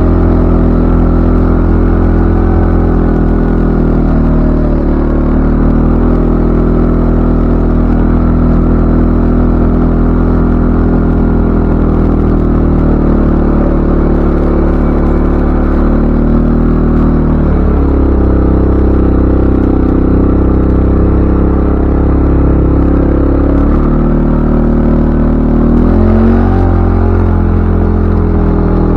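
CFMoto ATV engine running steadily under way; its note drops a little past halfway, holds lower for several seconds, then climbs back up.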